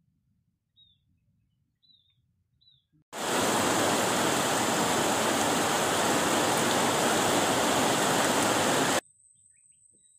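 Heavy rain pouring down, a loud steady hiss that starts suddenly about three seconds in and cuts off abruptly near the end. Before it, a small bird chirps faintly a few times; after it, a faint steady high tone.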